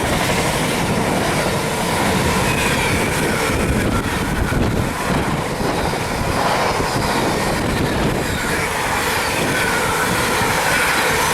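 Freight train hauled by Class 66 diesel 66569 passing, its wagons rolling by with steady wheel-on-rail noise and faint wavering wheel squeal.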